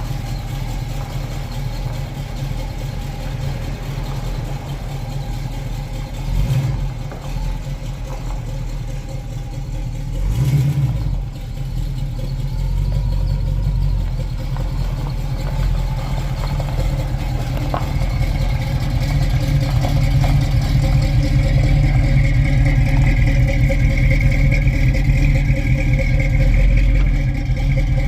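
Chevrolet Nova's engine idling after a cold start, with two short blips of the throttle about six and ten seconds in, then running steadily louder over the last part.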